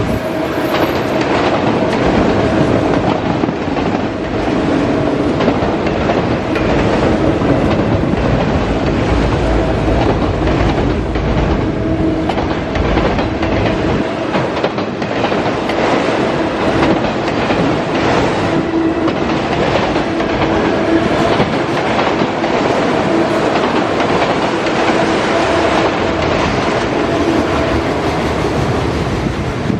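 Freight cars of a long CSX mixed train rolling past at steady speed, wheels clicking over the rail joints without a break.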